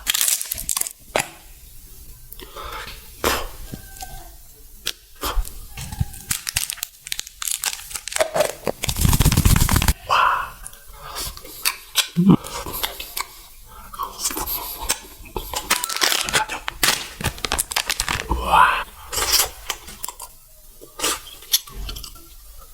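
Close-miked eating and food-packaging sounds: tearing and crinkling of wrappers, sharp cracks and crunches, with one longer, louder tearing noise about nine seconds in.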